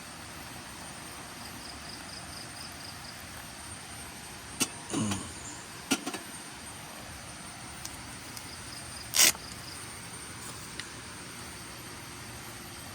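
Insects chirping in short, quick high pulses over a steady outdoor hiss, broken by a few sharp knocks around five and six seconds in and a louder single knock about nine seconds in.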